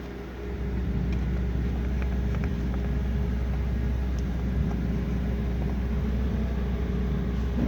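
Steady low rumble like a vehicle engine running, with a constant hum; it swells about half a second in and then holds level, with a few faint clicks.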